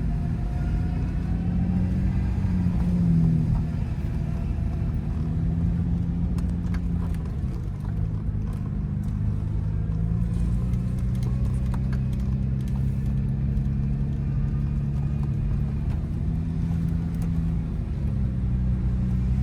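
Infiniti G35's freshly swapped engine running under way, a steady engine note with a slight rise in pitch about three seconds in and brief dips in pitch twice later on.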